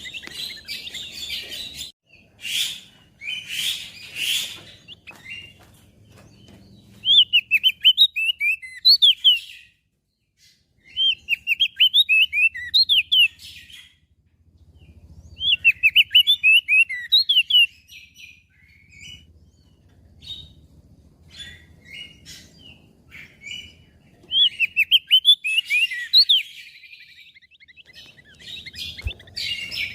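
Crested white-eye (opior jambul) singing: repeated phrases of quick, high twittering notes, each phrase a couple of seconds long with short pauses between. A few harsh, raspy notes come about two to four seconds in.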